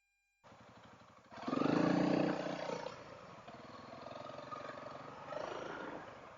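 Single-cylinder engine of a Honda dual-sport motorcycle pulling under throttle, heard through a helmet intercom microphone with wind noise. The sound cuts in about half a second in, swells sharply at about a second and a half as the engine speeds up, then settles to a steadier run.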